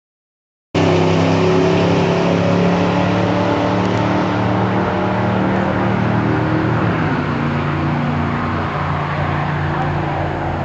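Drag cars' engines running steadily at the starting line. The sound cuts in suddenly about a second in after silence, then fades slowly.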